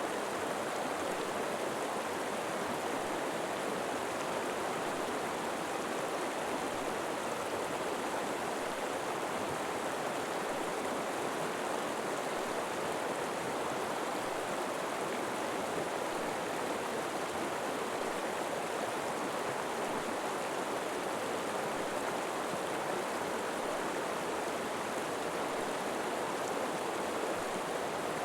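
A river flowing steadily over rocks, an even rush of water without breaks.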